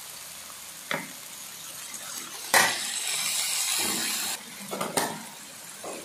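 Frog meat stir-frying in a metal wok: a steady sizzle, with a metal spatula clinking and scraping against the pan. About two and a half seconds in, a much louder burst of hissing starts suddenly and lasts nearly two seconds.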